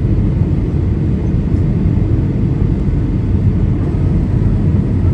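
Steady low rumble of a Boeing 737-800 in descent, heard from inside the passenger cabin: the noise of airflow and the CFM56 engines, even and unbroken.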